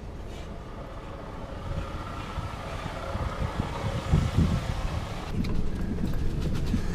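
A motor vehicle running: a low, uneven rumble with a faint steady hum, growing a little louder over the last few seconds.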